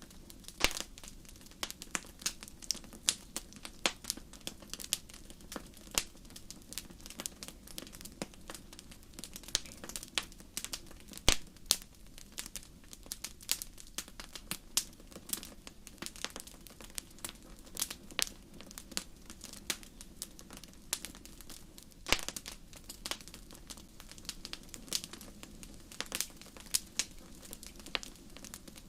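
Wood campfire crackling: irregular sharp pops and snaps, several a second, over a low steady sound of the burning fire. The strongest pops come about eleven seconds in and again about twenty-two seconds in.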